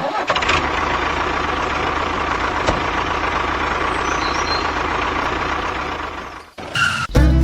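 A vehicle engine running steadily, like a truck idling, with a low rumbling pulse. It fades out about six and a half seconds in.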